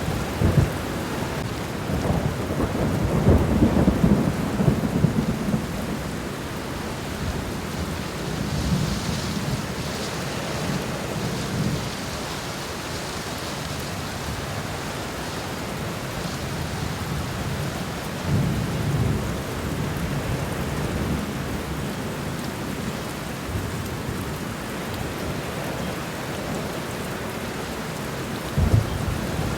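Steady rain falling on garden ground and leaves, with low rumbles of thunder swelling up about two to five seconds in, again around eighteen seconds, and near the end.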